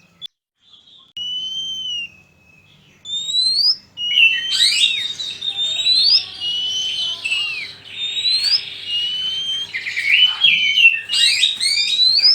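Oriental magpie-robin singing: clear whistled notes that glide up and down, resuming after a brief pause about a second in and becoming a dense, continuous run of overlapping phrases from about four seconds in.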